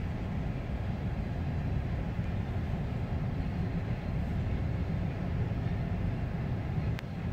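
Coal hopper cars of a freight train rolling past a road crossing, a steady low rumble of wheels on the rails, heard from inside a car. A single sharp click near the end.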